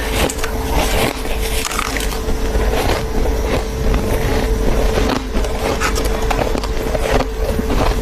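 Close-miked chewing of fluffy, soft freezer frost: a dense, continuous run of soft crunches, with a steady hum underneath.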